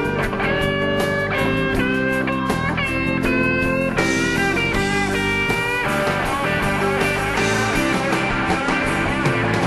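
Rock music in an instrumental break: a lead guitar plays held, bending notes over the band's sustained chords for the first six seconds, then the band carries on without singing.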